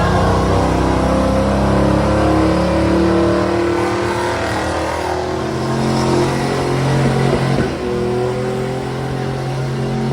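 Pulling truck's engine running hard and revving under load, its pitch shifting slowly up and down.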